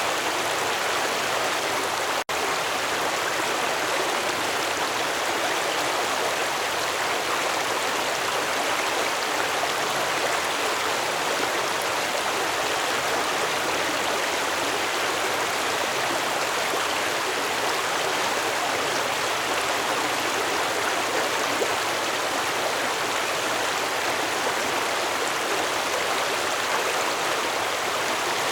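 Stream water flowing steadily over stones, an even rushing and babbling, broken only by a split-second dropout about two seconds in.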